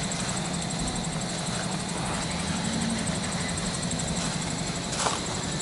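Toyota FJ40's 2L-T four-cylinder turbo diesel idling steadily, with a short click about five seconds in.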